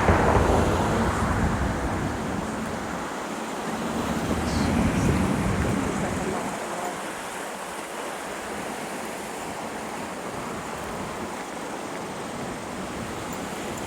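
Swollen, flooding Guadalupe River rushing, a steady noise of fast water, with wind buffeting the microphone for the first several seconds before it eases.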